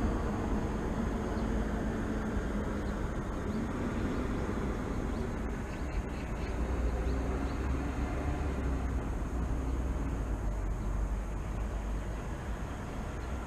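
Steady low rumble of distant city traffic, with a faint steady high-pitched whine above it.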